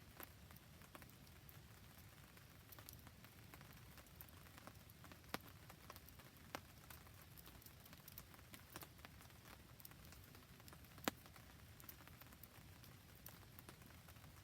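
Faint campfire and rain: a soft steady patter of rain with scattered sharp crackles and pops, the loudest pop about eleven seconds in.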